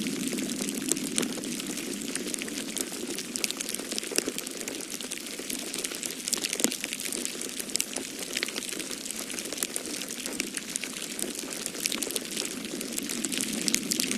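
Fireplace fire crackling: a dense, constant run of small pops and snaps over a steady low rush of storm wind.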